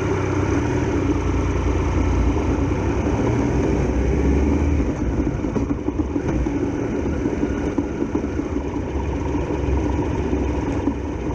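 Triumph Tiger Explorer XRx's three-cylinder engine idling steadily just after being started.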